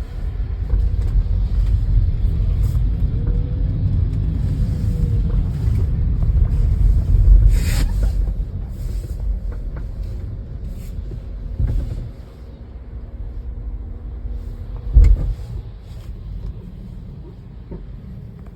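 Low rumble of a moving vehicle, loudest in the first half and easing off later, with a sharp click about halfway through and a short heavy thump near the end.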